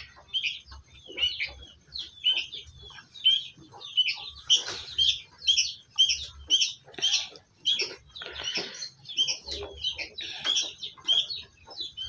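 Small birds chirping: many short, high chirps repeated about twice a second, coming thickest in the middle.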